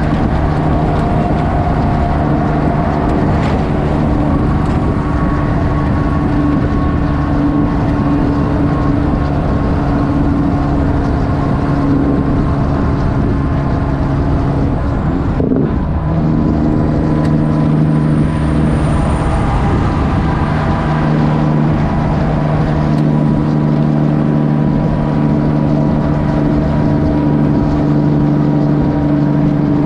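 Kenworth W900 semi truck's diesel engine running loud through straight-pipe exhaust at a steady pull. About halfway through the tone breaks off briefly with a dip in pitch, then comes back and carries on steadily.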